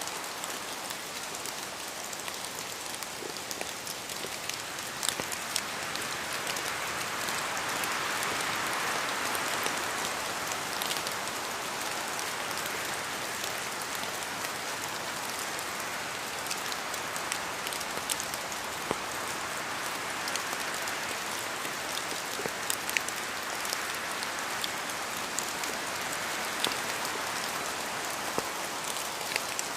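Steady rain falling, with individual drops ticking on a hard surface over an even hiss that swells gently and eases off a couple of times.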